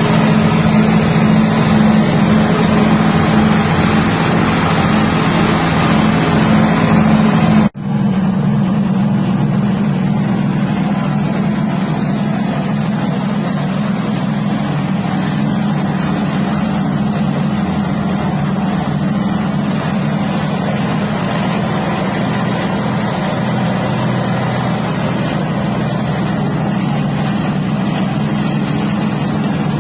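Motor-driven peanut-shelling machine running steadily with a low drone and a rattly hiss. The sound cuts out for an instant about eight seconds in, then carries on with less of the hiss.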